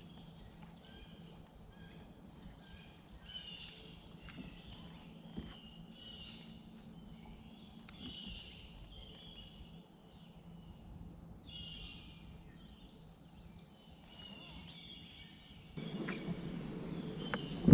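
Faint open-air ambience with scattered short bird chirps and insect calls over a faint steady low hum. About two seconds before the end, a louder even rushing noise comes in.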